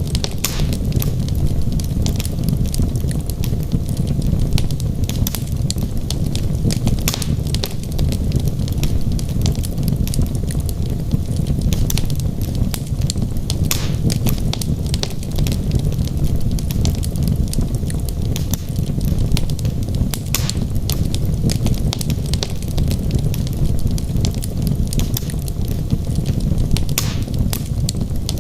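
Wood logs burning in a fireplace: a steady low rumble of the flames with frequent sharp crackles and pops throughout.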